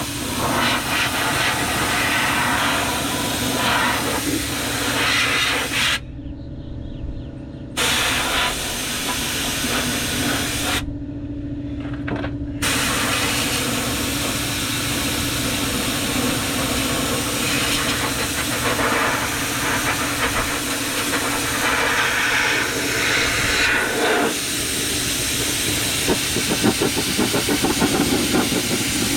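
Cheap Harbor Freight air-powered undercoating spray gun hissing as it sprays rubberized undercoating, with the trigger let off twice for a second or two. A steady hum runs underneath.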